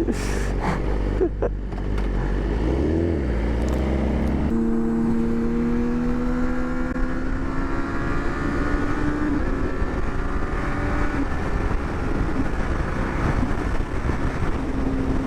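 2009 Honda CBR600RR's inline-four engine under way, with wind rushing over the helmet. About four and a half seconds in, the engine note changes suddenly, then rises steadily for several seconds as the bike accelerates, and it settles to a steady note near the end.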